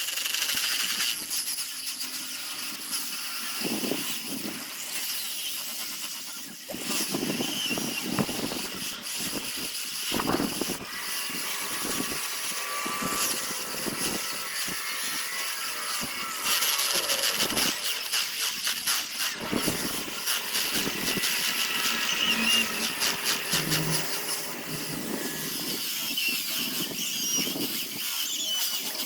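A power sanding tool running against a zelkova root piece, its steady high whine broken by irregular surges as it bears on the wood.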